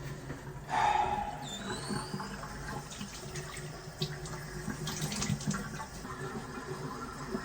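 Water running from a tap, starting with a louder rush about a second in, with scattered small clicks and knocks after it.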